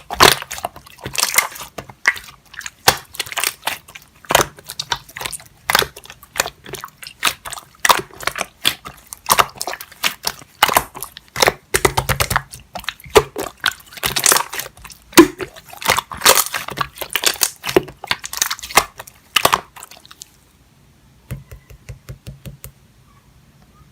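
Clear slime being squished and poked by hand, giving a quick, irregular run of clicks and pops that stops about twenty seconds in.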